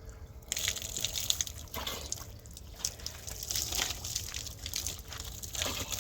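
Water splashing and pouring in irregular gushes, starting about half a second in.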